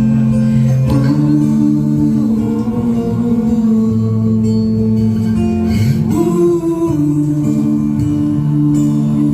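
Live rock band playing a slow ballad passage led by guitar, with long held notes and chords that change every second or two, and a sliding note about six seconds in.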